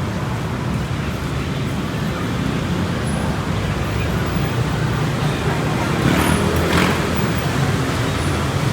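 Street traffic noise: a vehicle engine running close by, with a brief louder rush of a vehicle passing about six seconds in.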